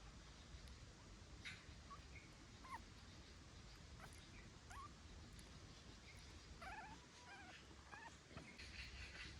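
Newborn puppy squeaking and whimpering faintly: a few short, rising squeaks, then a longer run of wavering cries about two-thirds of the way through.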